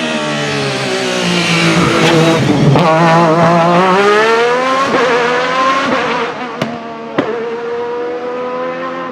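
Alfa Romeo 155 V6 Ti touring car's V6 racing engine at high revs. The pitch dips, then climbs steadily under acceleration, and the car fades away with two sharp exhaust pops about six and a half and seven seconds in.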